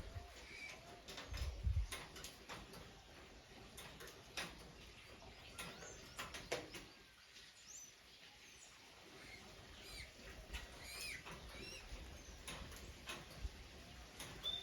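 Birds in a sugar-apple tree giving a few short, high chirps among scattered faint clicks and rustles, with a couple of low thumps in the first two seconds.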